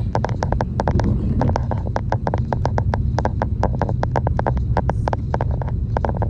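Vehicle driving in the rain: a steady low rumble of engine and road, with raindrops tapping rapidly and unevenly on the body.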